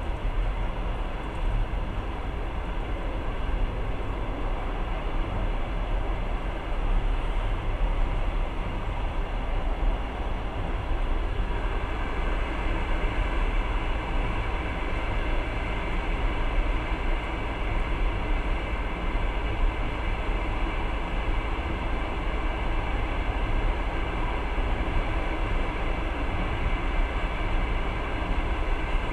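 Passenger train in motion, heard from inside the carriage: a steady noise of wheels running on the rails.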